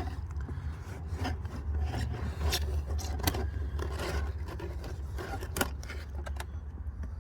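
Cabin air filter being pulled out of its plastic housing under the dash: irregular scraping and rubbing of the filter and plastic, with scattered sharp clicks, over a steady low hum.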